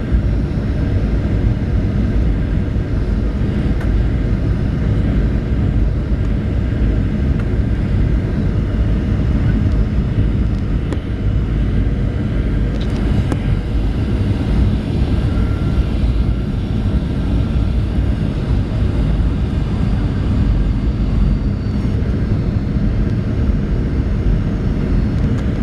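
Steady cabin noise inside a Boeing 737-800 in flight: the deep, even rumble of its CFM56-7B engines mixed with the hiss of airflow, with no distinct thumps or changes.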